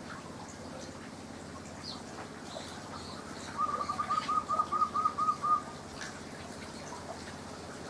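Birds in an aviary: scattered faint chirps, and about halfway through a loud, rapid run of about nine identical notes lasting two seconds.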